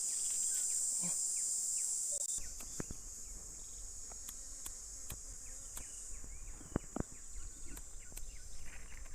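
Steady high-pitched chorus of singing insects. It drops abruptly in level a little over two seconds in, and scattered clicks and a low rumble follow.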